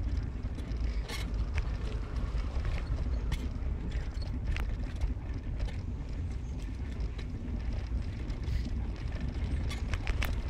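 Car driving, heard from inside: a steady low road-and-engine rumble with scattered clicks and knocks from bumps and rattles.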